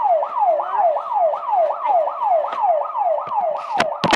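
Car alarm siren: a fast, repeating tone that sweeps down in pitch about three and a half times a second, loud and steady. A couple of sharp clicks come near the end.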